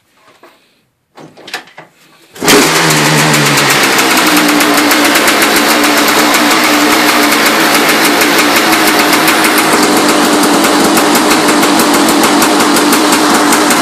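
Kawasaki KX500's single-cylinder 500cc two-stroke engine kickstarted on choke: a few faint knocks from the kick, then it fires about two and a half seconds in and keeps running loud and steady.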